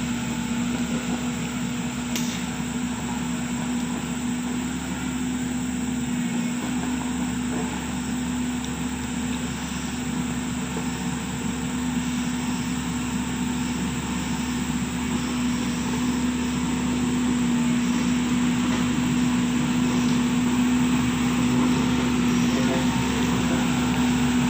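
An engine running steadily, a constant drone with a strong low hum.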